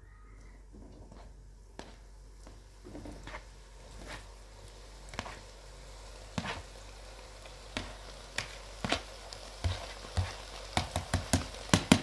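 Food frying in a pan: a sizzle that builds from about two seconds in, with sharp pops and spatters coming faster and louder near the end.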